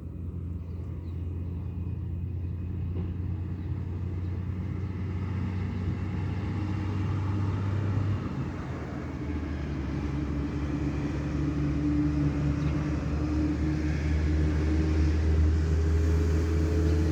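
Motor vehicle running with a low, steady rumble that grows gradually louder, its pitch rising slowly in the second half.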